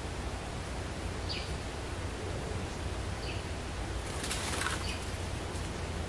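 Short high bird chirps repeated about every two seconds, with a brief louder burst of rustling a little past four seconds, over a steady low background rumble.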